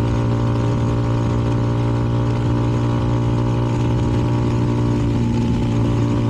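CFMoto 300NK's single-cylinder engine through its KO aftermarket exhaust, running at a steady cruise with the bike carrying two up, under steady wind and road noise.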